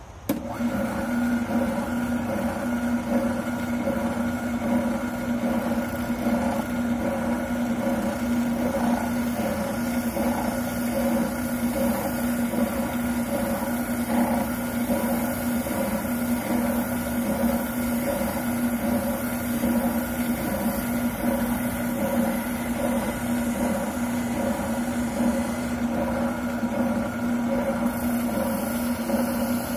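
Wilton oscillating sander running steadily with a constant motor hum, sanding down a plastic shotgun buttplate.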